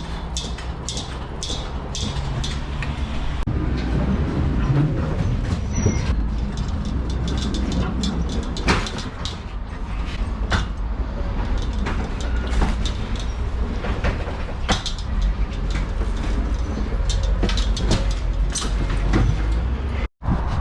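Volvo lorry running with a steady low engine rumble and frequent irregular rattles and knocks. The sound cuts out briefly near the end.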